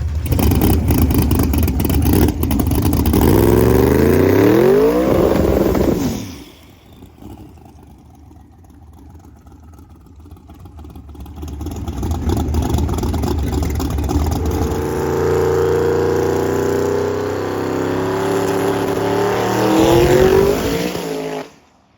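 Twin-turbo small-block Chevy V8 drag car at full throttle, its pitch climbing for a few seconds before the sound drops away suddenly about six seconds in as the driver lifts off. Engine sound builds again from about twelve seconds, rising near the end, and stops abruptly.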